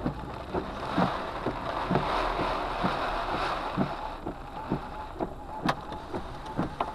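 Heavy wind-driven rain beating on a car, heard from inside the cabin: a steady rushing hiss broken by irregular sharp taps of large drops hitting the roof and windshield.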